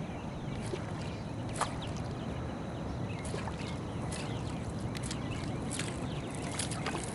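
Steady low rumble of wind and water around a kayak, with scattered short, sharp high ticks through it.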